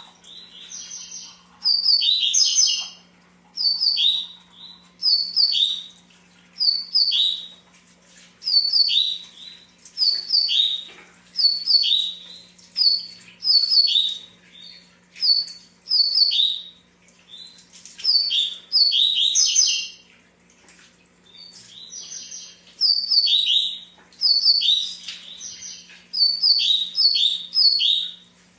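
Double-collared seedeater (coleiro) singing over and over: short phrases of a few quick, high, falling notes, one phrase every second or two. A faint steady low hum sits underneath.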